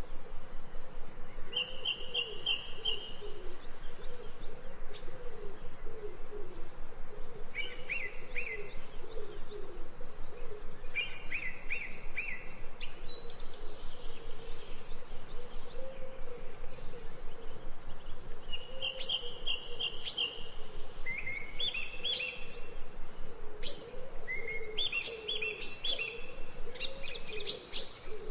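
Ambient birdsong: several birds chirping and trilling in short high phrases, over a lower call that repeats throughout.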